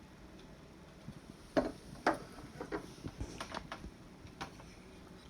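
A run of light knocks and clicks, starting about a second and a half in, about seven over three seconds: containers being handled and set down on a table.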